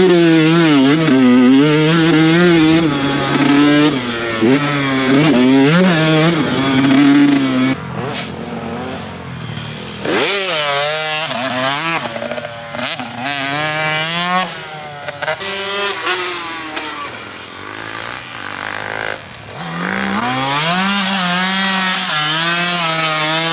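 Two-stroke dirt bike engine revving hard and easing off over and over as it is ridden, its pitch climbing and dropping with each burst of throttle.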